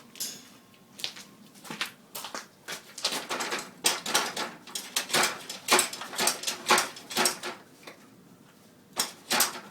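Snow-coated sweatshirt being shaken out to knock the snow off: a long run of irregular flapping and rustling strokes, with a short lull before two or three more near the end.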